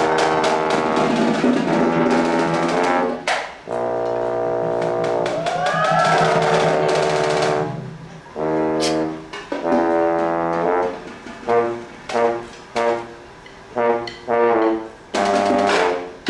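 High school band brass playing: long held chords with a sliding, bending figure about six seconds in, then a string of short punched chords with gaps between them, with some drum.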